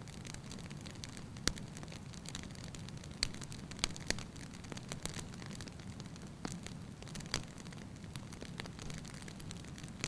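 Wood fire burning in a fireplace: a steady low rumble of flames with irregular sharp pops and crackles, several louder snaps spread through.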